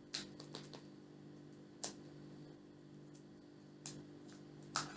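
A few short, sharp clicks and taps of small objects being handled, spaced out irregularly over a faint steady low hum.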